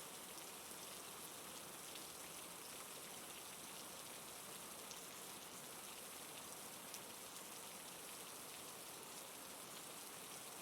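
Steady rain falling, faint and even, with scattered light drops pattering.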